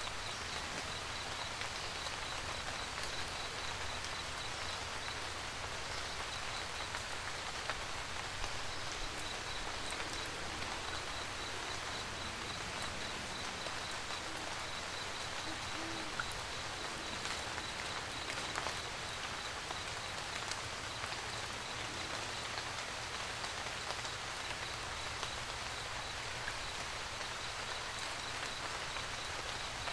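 Steady rain pattering on a roof, with scattered louder single drops. A faint, rapid, high-pitched pulsing chirp runs through most of it.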